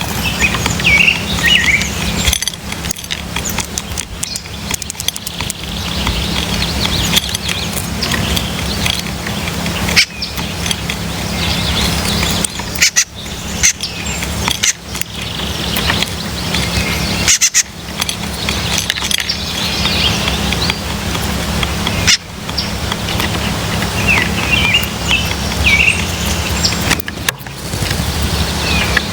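Wild birds chirping at a seed-feeding spot: short scattered chirps over a steady low rumble, with a few sharp knocks.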